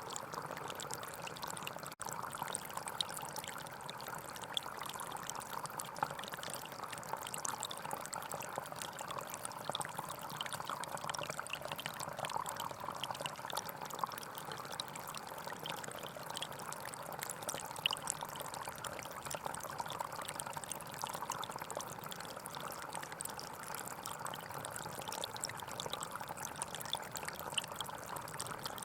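Small stream flowing and trickling over stones, a steady babble of running water.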